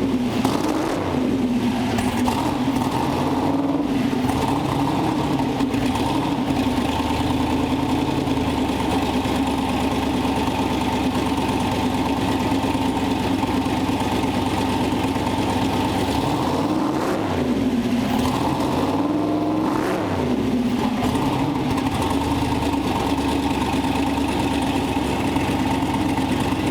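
Twin-turbo 5.3 aluminum LS V8 in a 1976 Chevy Vega running steadily just after being revived. Its speed swings briefly twice, about two-thirds of the way in.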